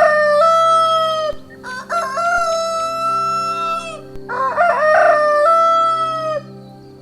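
Rooster crowing three times in a row, each crow a long call with a wavering start and a long held note.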